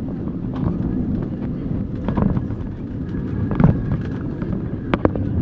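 Low rumble of an Airbus A320 heard from inside the cabin during landing, swelling in level, with scattered knocks and rattles.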